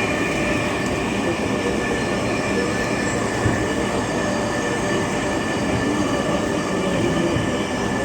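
Dhaka metro train running between stations, heard from inside the carriage: a steady rumble of wheels on the track with a few high tones held steady.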